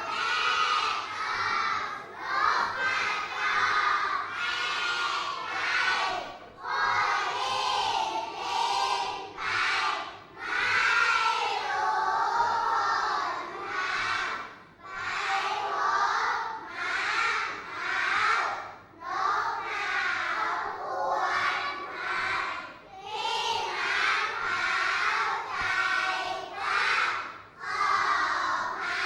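A class of young children reciting a Thai poem aloud in unison, chanting it line by line in phrases of about two seconds with short breaks between them.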